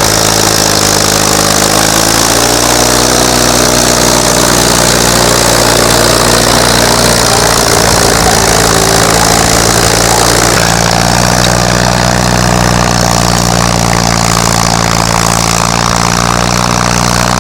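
Antique farm tractor engine running steadily as it pulls a plow on the first row. Its pitch dips and comes back up in the first couple of seconds, then holds even.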